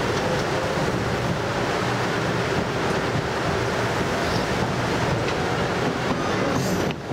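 Jōmō Electric Railway train running along the line, heard from inside the carriage: a steady rumble and rush of wheels on rails. Near the end a brief high hiss, after which the noise drops suddenly.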